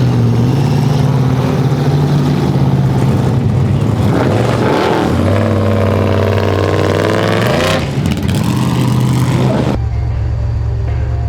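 A truck engine running loud and revving, its pitch sweeping up and down several times. About ten seconds in the sound changes abruptly to a steadier low drone.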